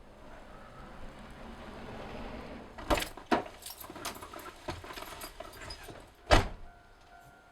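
Keys jangling and rattling, with several clicks and knocks, then a single solid thud about six seconds in like a Toyota Land Cruiser 70's door being shut. A steady tone begins right after the thud.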